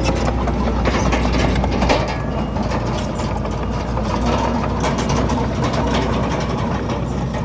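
Komatsu D31PX bulldozer's diesel engine running steadily, with irregular clicking and clatter over the low rumble, which eases a little about two seconds in.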